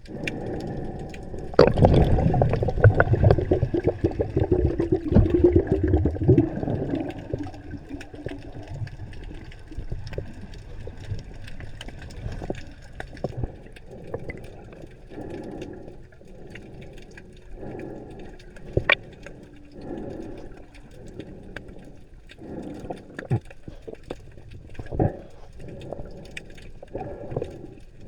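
Underwater bubbling: a loud gurgling rush of bubbles from about a second and a half in until about eight seconds in, then quieter bubbling with scattered sharp clicks.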